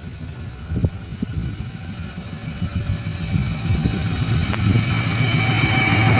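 KAI CC206 diesel-electric locomotive approaching, its engine growing steadily louder, with a high whine joining near the end.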